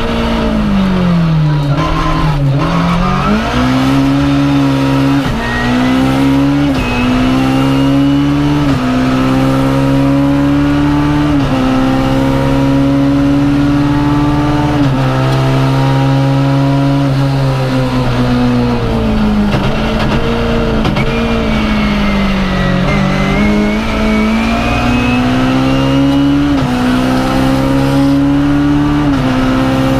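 BMW M3 E30 rally car's four-cylinder engine at full race pace, heard from inside the cabin. It revs up and drops back sharply at each upshift, about five times. Through a long stretch in the middle the revs sink slowly as the car slows, then it pulls up through the gears again near the end.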